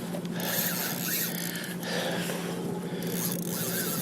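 A fishing reel's drag peeling line steadily as a hooked bluefin tuna runs, a continuous rasping buzz.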